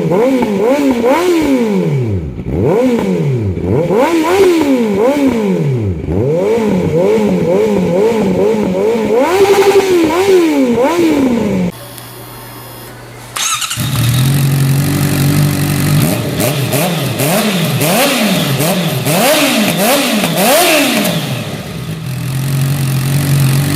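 Honda CBR650F inline-four motorcycle engine on an aftermarket exhaust, revved in quick repeated blips that rise and fall. After a cut about twelve seconds in, the engine idles steadily, is revved several times, and settles back to idle near the end.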